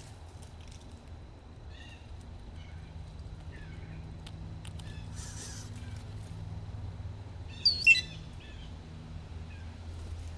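Small birds chirping in short scattered calls, with one louder call about three quarters of the way through, over a steady low hum.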